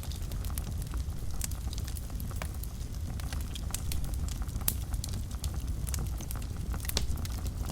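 Wood fire burning in a fireplace: a steady low rumble of the flames with frequent irregular sharp crackles and pops, a few louder snaps among them.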